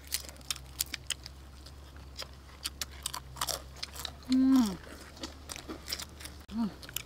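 Crispy fried chicken legs being bitten and chewed, with many short crunches and mouth smacks. About four seconds in, one of the women gives a brief vocal sound that falls in pitch, and a shorter one comes near the end.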